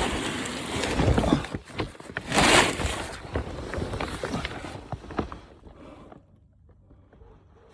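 A person crawling on their belly through a tight crawl space: scraping, rustling and scattered knocks of body and gear against the ground, with two louder scrapes early on, quieting after about five seconds.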